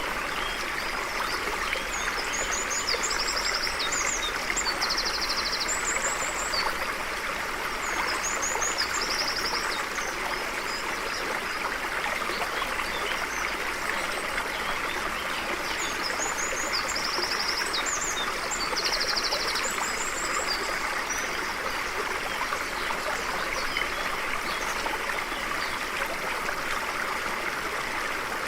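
Stream flowing steadily over rocks, with a songbird's high, rapid trilled phrases twice, a few seconds in and again past the middle.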